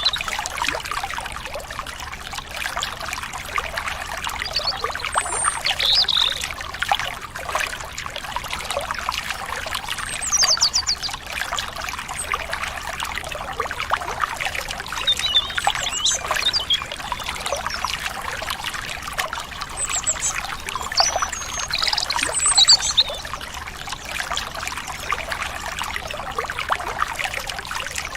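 Stream water trickling and babbling without a break, with scattered short bird chirps and whistles over it.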